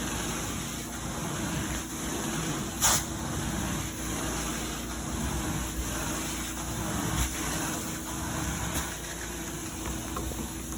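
A motor running steadily with a low hum. There is a short, sharp burst of hiss about three seconds in and fainter ticks later on.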